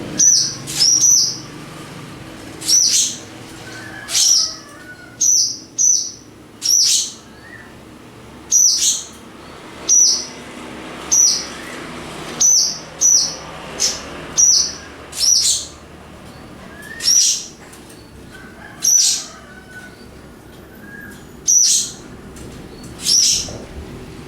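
Swallows calling repeatedly: loud, sharp, high notes, many of them sweeping down in pitch, coming every one to two seconds at an uneven pace. They are the alarm calls of a pair defending their nest.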